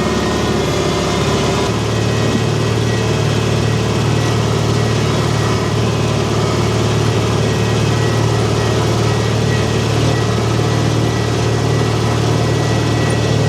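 Tractor engine running steadily, settling to a slightly lower, even note about two seconds in.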